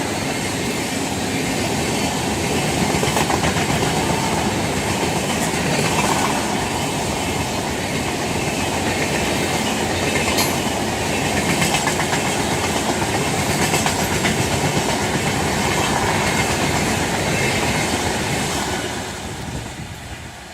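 Superfast express train passing at speed, a steady rushing noise with wheels clattering over the rail joints. The sound drops away near the end as the last coaches go by.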